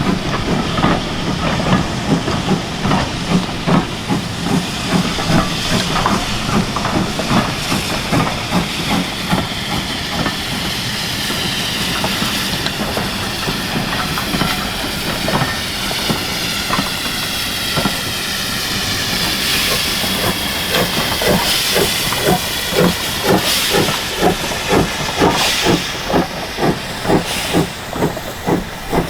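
Steam locomotive working, its exhaust beating in a steady rhythm over a constant hiss of steam; the beats come about two a second near the end.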